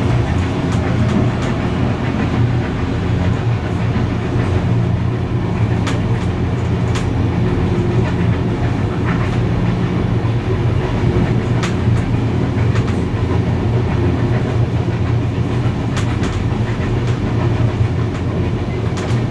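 Steam-hauled heritage train running along the rails: a steady rumble with scattered sharp clicks, the clickety-clack of wheels over the track.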